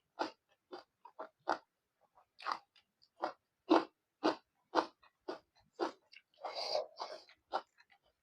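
Close-miked chewing of fried pork and rice: short wet mouth clicks about twice a second, with one longer, noisier mouth sound about six and a half seconds in.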